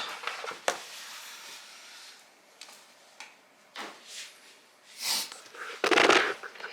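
Clothes being handled: scattered rustling and brushing of fabric, with a louder rustle near the end.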